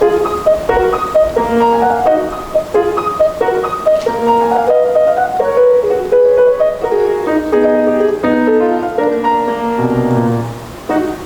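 Acoustic piano played solo: a quick run of short detached notes over lower accompanying notes, with a brief break near the end before the playing resumes.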